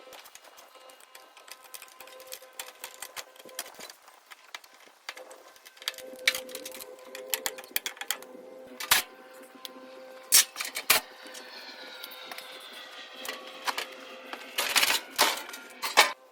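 Irregular metal clinks, taps and knocks from hand tools and parts while an air conditioning condenser is taken apart for scrap, over a steady hum. There are a few sharper knocks about nine, eleven and fifteen seconds in.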